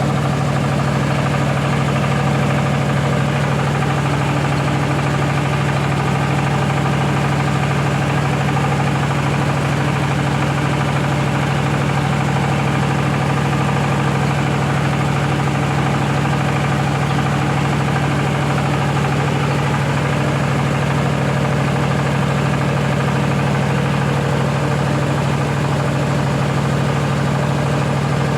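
Rice milling machine running steadily, a constant mechanical drone with a strong low hum that does not change.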